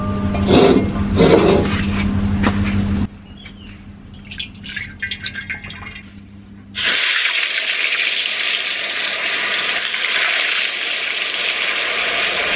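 Tofu and tempe deep-frying in hot oil in a wok: a loud, steady sizzle that starts suddenly about seven seconds in. Before it, a quieter, muffled stretch.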